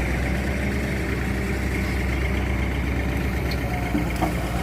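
Heavy diesel engine running steadily, with a couple of short knocks near the end.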